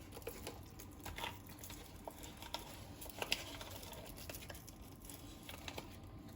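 Faint scattered taps, clicks and crinkling of a spoon and spice packets being handled while ground spices are measured out, the loudest tick about three seconds in.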